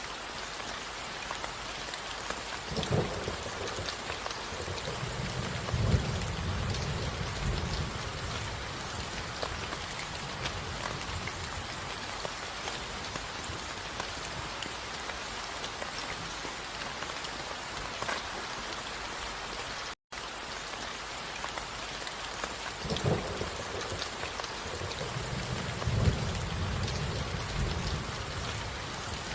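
Steady rain with two rolls of thunder. Each starts with a sharp crack, one about three seconds in and one about twenty-three seconds in, then rumbles low for several seconds. The sound cuts out for a split second about two-thirds of the way through.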